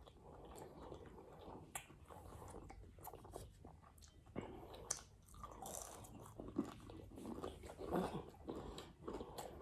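Faint close-up chewing and crunching of food, a string of irregular crisp crunches.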